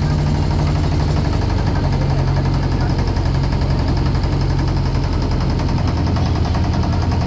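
A boat's engine running steadily with a low, even, rapidly pulsing note.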